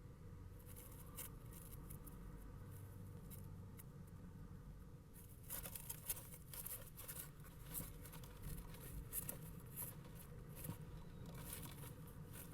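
A kestrel moving about in a nest box: light scratching and tapping of claws on wood and bedding, a few scrapes at first, then a denser run of them from about halfway.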